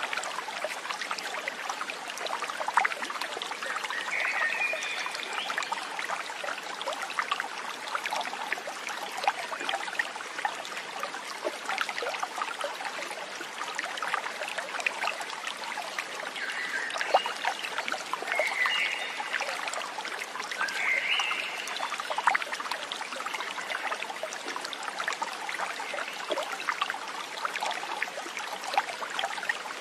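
Small stream trickling and burbling over stones, with a few short, high chirps: one about four seconds in and a cluster around the middle.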